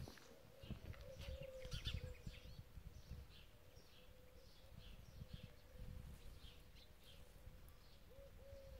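Near silence with faint birds chirping, short calls repeated about twice a second, over a faint steady hum.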